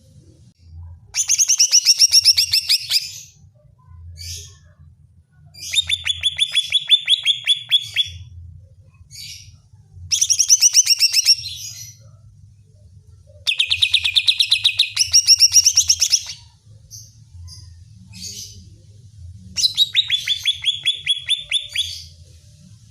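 Cucak ijo (green leafbird) singing in five bursts of rapid, chattering repeated notes, each about two seconds long, with a few single notes in the gaps. It is an excited, combative song, the kind played as a lure to rouse other cucak ijo.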